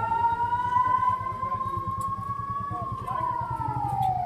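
Emergency vehicle siren wailing slowly: its pitch rises over about three seconds, drops near the end, then starts climbing again. An engine runs with a low, even rumble underneath.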